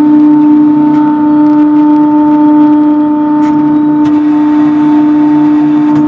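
Sawmill with its debarker running, a loud steady hum at one constant pitch, with a few faint clicks.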